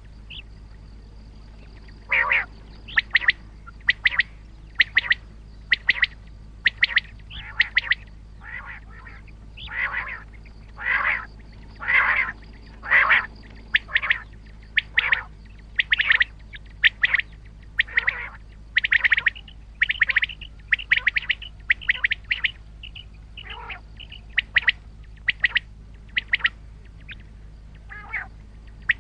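Common quail (batair) calling over and over: short, sharp notes about once a second, some coming in quick pairs or small clusters.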